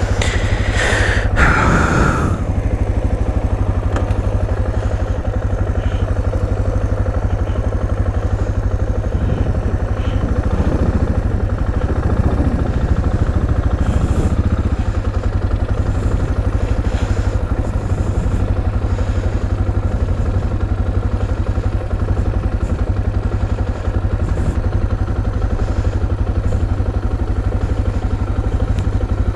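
Motorcycle engine running steadily close to the microphone, a dense low firing pulse. A brief higher-pitched sound comes in the first two seconds.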